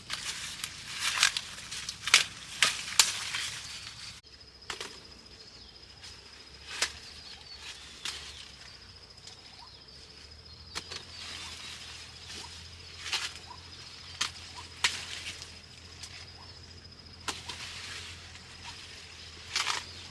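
Scattered sharp rustles and snaps, with a thin, steady high-pitched whine through the middle of the stretch that starts about four seconds in and stops suddenly near the end.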